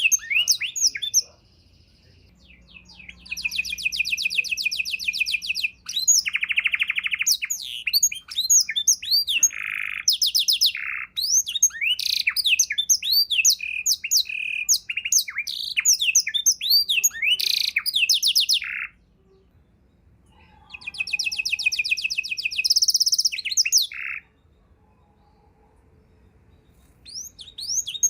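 Domestic canary singing a varied song of long, fast rolled trills and quick chirped notes, in phrases separated by pauses of one to three seconds.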